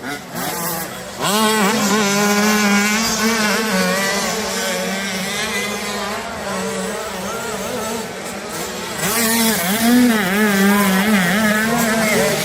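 Motocross dirt bike engines racing on the track, revving up and down as the riders work the throttle and change gear. The bikes get louder about a second in and again, loudest, about nine seconds in as they pass close by.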